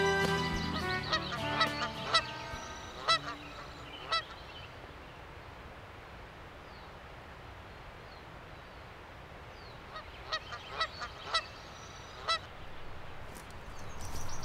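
Brass background music fades out in the first second. Then come short honking bird calls: about five in the first four seconds, and a second cluster of four about ten to twelve seconds in, over a faint steady outdoor hiss.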